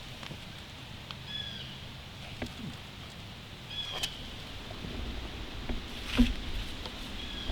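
A bird repeats a short, slightly falling call about every two and a half seconds, over scattered light footsteps and rustling on wet forest floor. A louder knock or thump comes about six seconds in.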